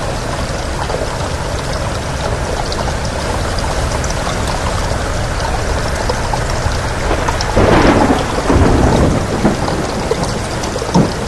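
Steady heavy rain, with a loud rolling burst of thunder about two-thirds of the way through and a short sharp crack near the end.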